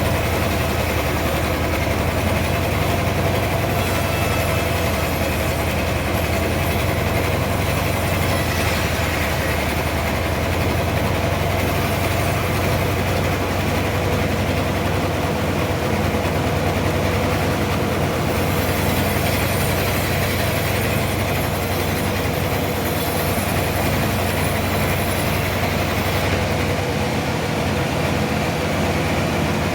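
Sawmill machinery running with a steady, even hum and no breaks or impacts.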